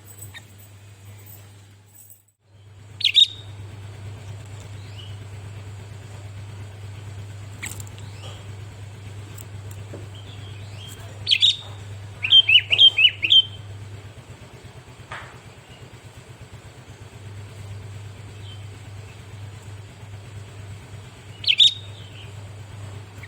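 Sooty-headed bulbul (kutilang) giving short, loud chirping calls: one about three seconds in, a quick run of several notes in the middle, and one more near the end. A steady low hum lies underneath.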